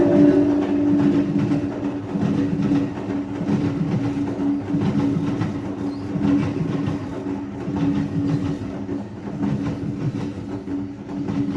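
NJ Transit push-pull train led by an ALP46A electric locomotive passing close by. The wheels rumble and clatter over the rails under a steady hum, and the tail of the horn fades away at the start.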